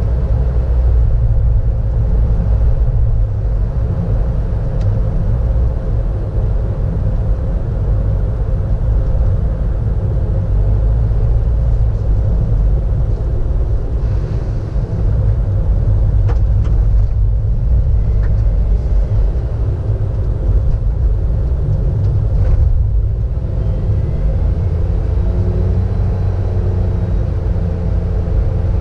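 Steady low rumble of a car driving along a road, heard from inside the cabin: engine and tyre noise with no sudden events.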